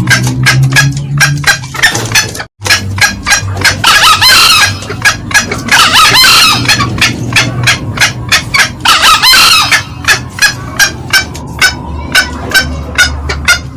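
Green junglefowl calls, loud: a rapid, even string of short cackling notes, about three a second, with three louder crows about four, six and nine seconds in.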